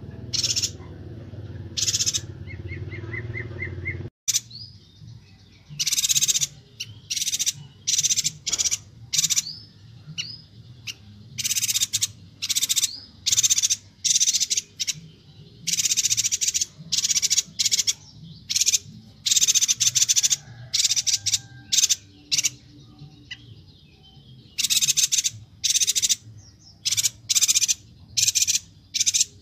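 Chestnut-crested yuhina calling in quick, dense runs of short, high, sharp notes, with a fast ticking trill near the start. A low background hum cuts off abruptly about four seconds in.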